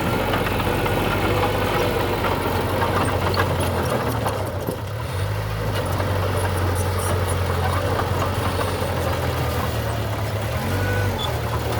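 Heavy construction-machine diesel engine running steadily, its note shifting a few times, with a brief drop about halfway through. Scattered light clicks sound over it.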